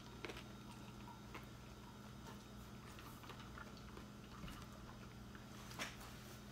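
Faint chewing and mouth clicks of someone eating a shrimp po' boy on a crusty roll, with a sharper click near the end, over a faint steady hum.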